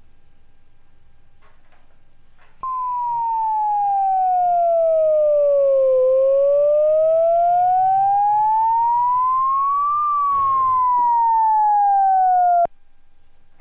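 Electronic siren in a slow wail: a clean tone starts a couple of seconds in, sinks for about three seconds, climbs for about four, sinks again, then cuts off abruptly.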